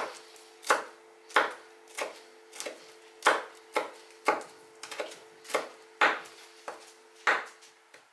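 A chef's knife chopping fresh green herbs on a bamboo cutting board: crisp knocks of the blade on the wood, unevenly paced at roughly two a second. A faint steady hum runs underneath and stops at the end.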